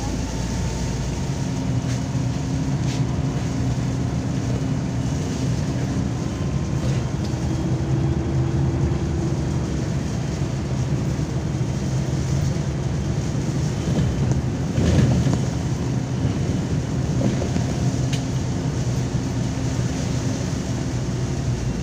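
Inside a MAZ-203 city bus under way: steady diesel engine hum and road noise, with a faint tone that rises and falls. About fifteen seconds in there is a brief, louder rattle.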